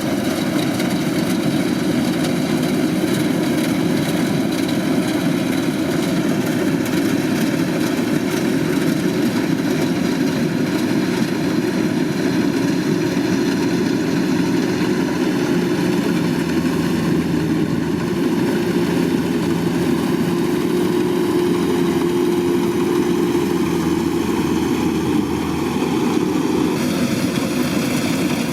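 Kubota DC-105X combine harvester's diesel engine running steadily, with a slight change in tone near the end.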